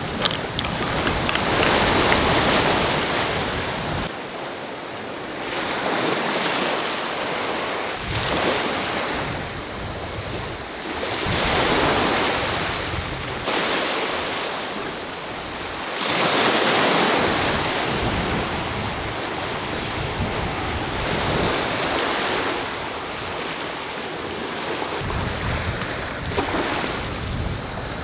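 Sea waves breaking on the shore, the surf swelling and fading every four to six seconds, with wind gusting over the microphone as a low rumble.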